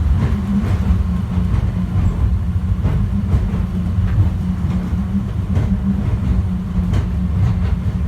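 Airport subway train heard from inside the car while running at speed: a steady low rumble with a few faint clicks.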